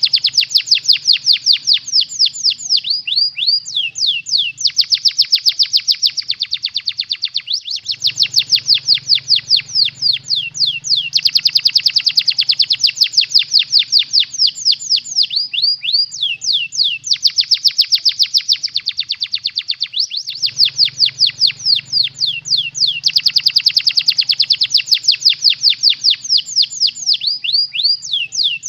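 Domestic canary singing a song filled with lovebird-style phrases: long runs of rapid, sharp, falling chirps, several a second, in phrases a few seconds long with short breaks between them. A faint low hum lies under some phrases.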